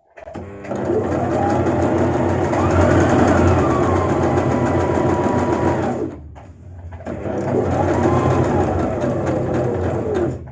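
Portable electric sewing machine stitching in two runs, about six and three seconds long, with a short pause between them. The motor speeds up and slows down in each run as it sews the final step (D) of a manual four-step buttonhole.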